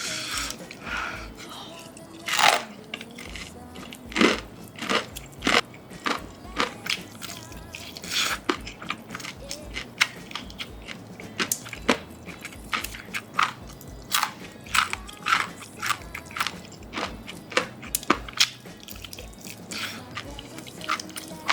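Crispy fried chicken crust crunching as it is bitten and chewed close to the microphone, a run of sharp, irregular crackles.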